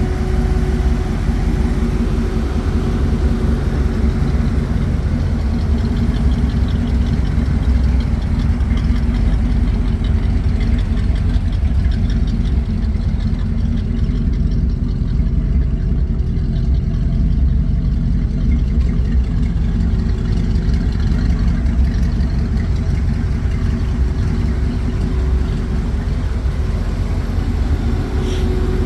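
1951 Dodge truck's engine running steadily at idle.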